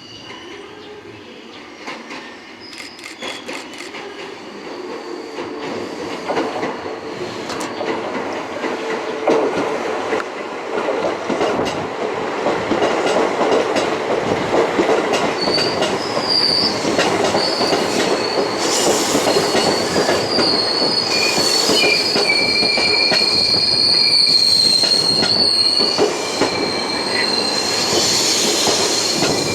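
A train approaching and running through the station, its rumble growing louder over the first dozen seconds and then holding steady. About halfway through, the steel wheels start squealing high against the rails and keep on to the end.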